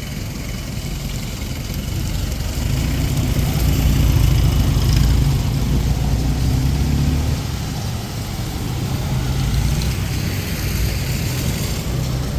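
A motor vehicle's engine running close by, a steady low hum that swells for a few seconds in the middle and then eases off, over an even hiss of rain.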